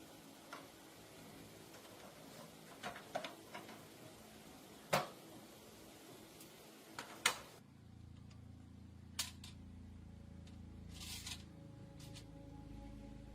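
Scattered sharp clicks and knocks, a few at a time, the loudest about halfway through. Soft, low background music then comes in, with a few more clicks over it.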